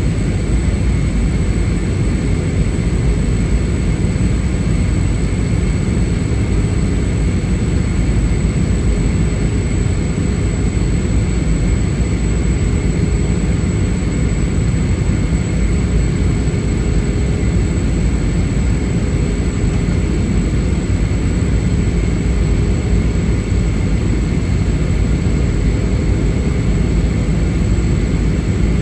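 Airbus A320 cabin noise in flight: a steady roar of engines and airflow, with faint steady whines above it, unchanging throughout.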